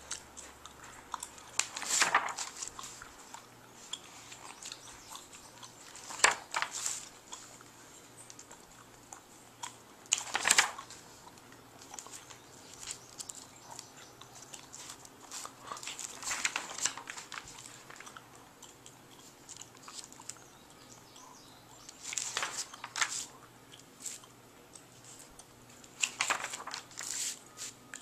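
Paper rustling in about six short bursts a few seconds apart: pages of a dishwasher instruction booklet being handled and turned.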